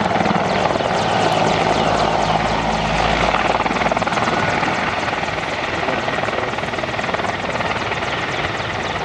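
Mil Mi-24 Hind attack helicopter in flight: its twin turboshaft engines and main rotor running loud, with a rapid, even beat of the rotor blades, growing slightly fainter near the end.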